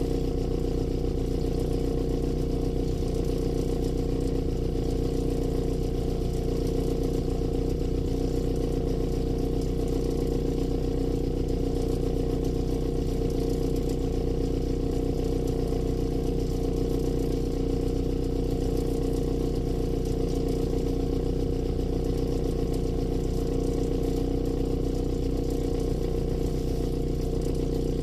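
Rover Mini's A-series four-cylinder engine running through an aftermarket HKS/Rookie muffler, holding one steady pitch without revving.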